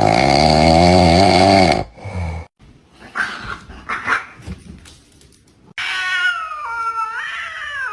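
An animal calling: a loud, wavering, growl-like call for about the first two seconds, then quieter scattered sounds, and from about three-quarters of the way in a higher drawn-out whining call whose pitch steps up and down.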